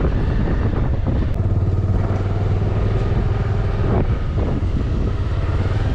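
Motorbike engine running steadily under way, with wind buffeting the microphone.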